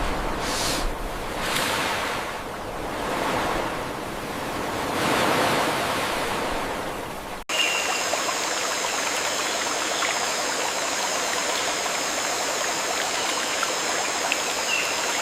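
Rushing water, a full even hiss that swells and eases a few times. About halfway through it cuts abruptly to a steadier water sound with a high, even hiss on top and a few faint short chirps.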